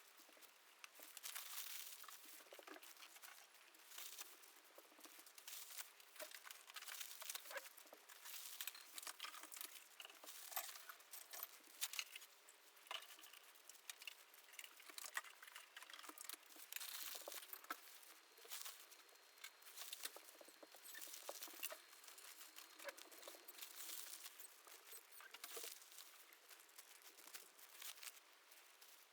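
Faint, irregular crackling and rustling, made of many small ticks and clicks.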